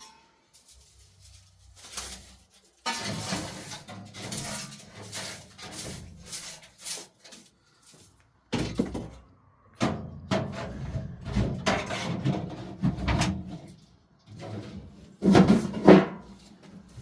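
Irregular knocking, scraping and clatter of objects being handled in a small room, with two sharp thuds near the end.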